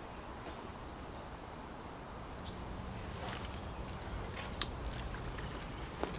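Outdoor lakeside ambience: a low rumble of wind on the microphone, a short bird chirp, a few faint clicks and a faint steady hum that comes in about halfway through.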